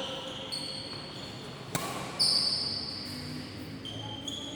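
Badminton play: sports shoes squeaking on the court floor in several high, drawn-out squeals. A sharp racket hit on the shuttlecock comes just under two seconds in.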